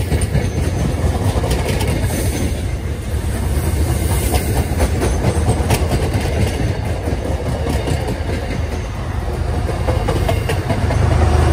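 Train passing close by: a steady rumble from the cars, with wheels clicking over rail joints again and again.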